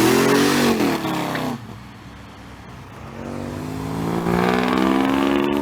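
Car engine revving: its pitch falls away over the first second and a half, then after a short lull climbs steadily for about two seconds before cutting off suddenly.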